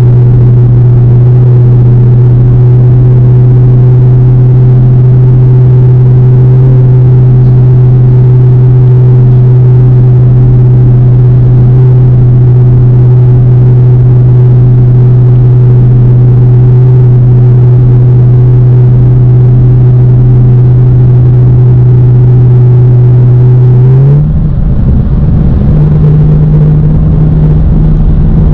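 BMW E92 335i's turbocharged inline-six and exhaust droning loud and steady at a constant highway cruising speed. About 24 s in the note rises briefly, turns rougher, then settles on a slightly higher steady note.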